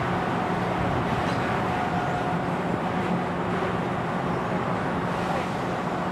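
Large vehicle engine running steadily, a constant low hum over a wash of road-traffic noise.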